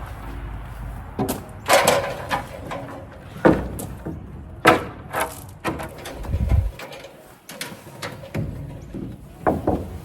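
A run of irregular knocks and clattering from siding being handled and set against the wall, with about ten sharp strikes spread unevenly through it.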